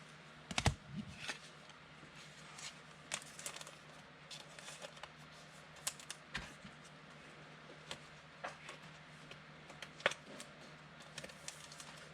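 Trading cards being handled and sorted: irregular light clicks and taps, with one heavier knock about half a second in, over a faint steady low hum.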